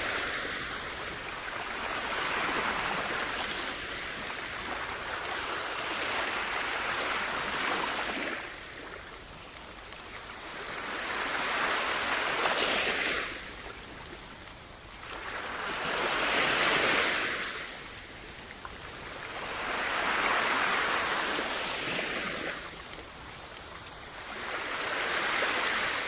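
Sea waves washing onto a beach, the surf hiss swelling and fading in a slow rhythm, a surge about every four seconds.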